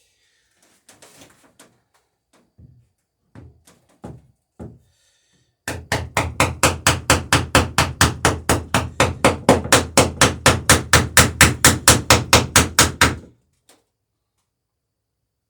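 Hammer peening over a rivet in the wooden planking of a dory: a fast, even run of sharp blows, about five a second for some seven seconds. A few light scattered knocks come before the run starts.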